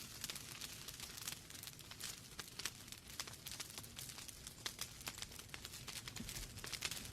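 Wood fire burning in a fireplace: a soft steady hiss with frequent irregular crackles and small pops from the burning logs.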